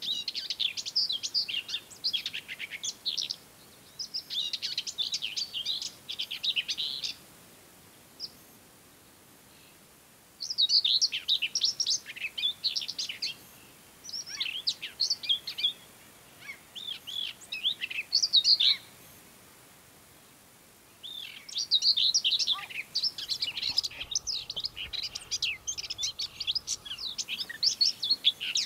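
Common whitethroat singing: a series of short, quick, jumbled warbling phrases, each a second or two long with brief pauses between them. The last phrase runs several seconds longer.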